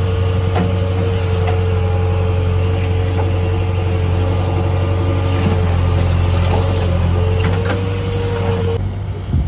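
Diesel engine of heavy earthmoving machinery running steadily, with a constant whine over the engine note and occasional sharp knocks. The whine stops abruptly near the end.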